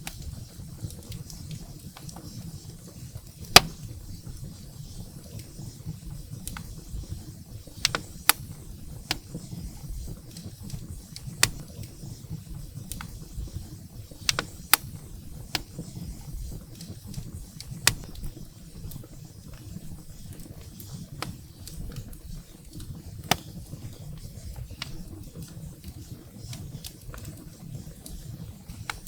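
Wood fire burning in a fireplace: irregular sharp crackles and pops of burning firewood over a steady low rumble of the flames, with one loud pop about three and a half seconds in.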